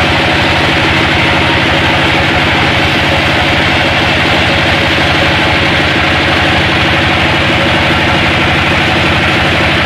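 Engine running steadily at a constant speed with a fast, even pulse, along with a steady hiss of mechanical noise.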